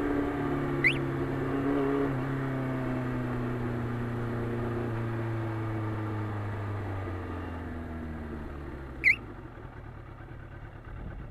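Motorcycle engine with its revs falling steadily as it slows, fading to a low rumble about nine seconds in. Two short high chirps cut in, about a second in and again near the end.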